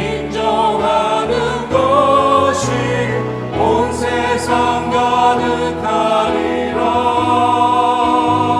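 Church choir singing an anthem in several-part harmony, voices with vibrato, over long held low accompaniment notes.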